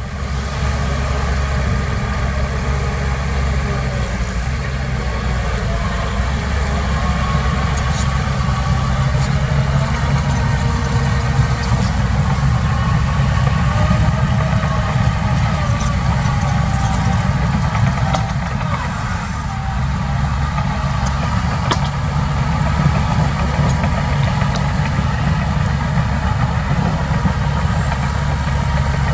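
Heavy diesel earthmoving machinery running steadily, a deep, even engine sound.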